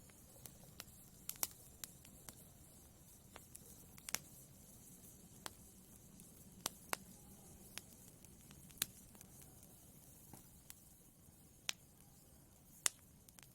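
Wood fire in a fireplace crackling: a faint low hiss with irregular sharp pops, about a dozen of them, the loudest near the end.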